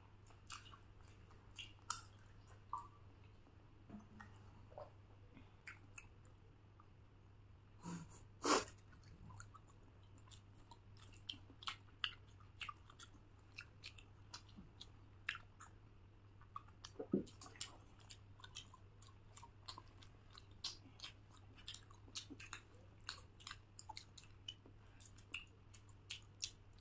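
Mouth sounds of people eating: wet chewing smacks and small clicks scattered irregularly, with one louder smack about eight and a half seconds in. A faint steady low hum runs underneath.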